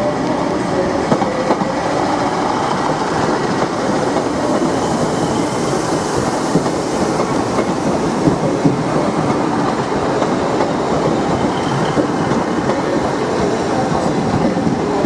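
Class 150 Sprinter diesel multiple unit running past at close range: a steady rolling rumble of wheels and underfloor running gear, with a few sharp clicks as the wheels cross rail joints.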